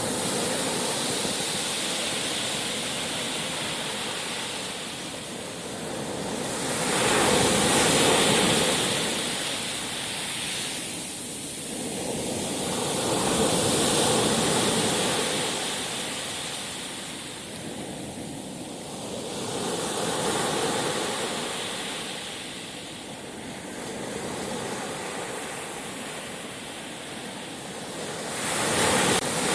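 Sea surf: waves breaking and washing up the shore, the rush swelling and ebbing about every six seconds, with a sudden louder swell near the end.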